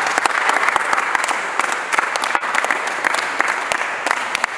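A group of people applauding with many hands clapping, starting suddenly and thinning out slowly toward the end.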